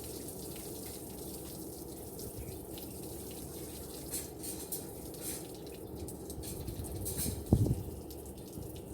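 Tap water running steadily into a sink while barbecue tools are washed, with a few light clicks about halfway through and a loud thump near the end.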